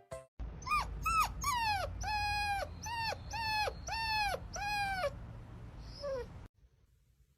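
A dog whining in a series of about eight short, high-pitched cries, each falling in pitch at its end, then the sound cuts off suddenly.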